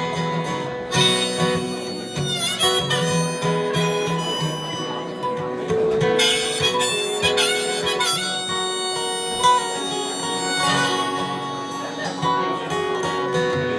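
Harmonica solo over acoustic guitar, an instrumental break between sung verses of a folk song, with held notes and bent pitches.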